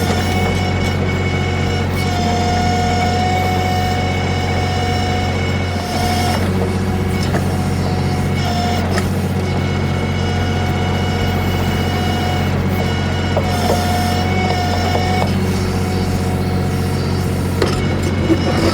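Kioti CK3510SE compact tractor's diesel engine running steadily while the KB2475 backhoe digs, with a hydraulic whine coming and going several times as the backhoe is worked.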